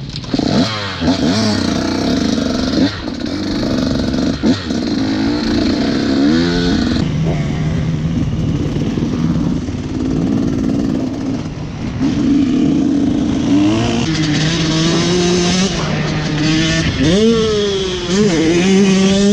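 Motocross bike engine on the throttle, revs rising and falling again and again with quick pitch sweeps as the rider accelerates, backs off and shifts; it settles to a steadier, lower note for a few seconds in the middle before revving hard again.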